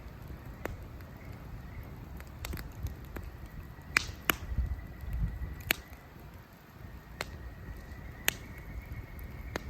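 Campfire burning wood, with sharp crackles and pops at irregular intervals over a low, steady rumble. The loudest pops come about four and six seconds in. A faint thin high-pitched tone runs beneath from about a second and a half in.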